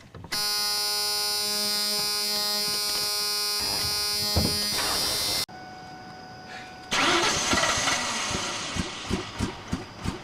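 A loud, steady pitched tone lasting about five seconds that cuts off abruptly. After a short quieter stretch, a car engine is cranked over with a fast, even chugging rhythm, the starter turning an engine that is reluctant to start.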